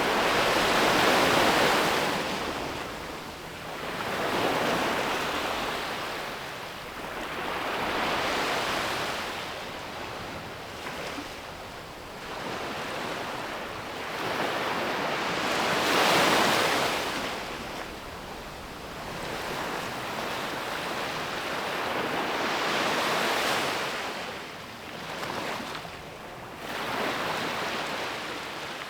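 Ocean surf: waves breaking and washing up the shore in swells that rise and fall every few seconds, the loudest near the start and about sixteen seconds in.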